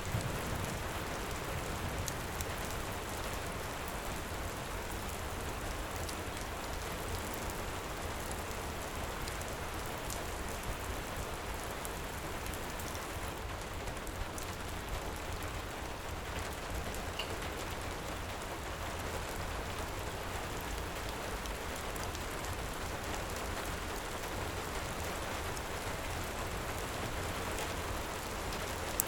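Heavy rain falling steadily, with faint scattered crackles from a wood fire.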